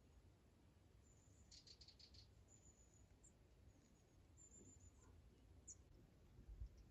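Faint, high, thin bird chirps: a handful of short calls, with a quick run of ticking notes about two seconds in.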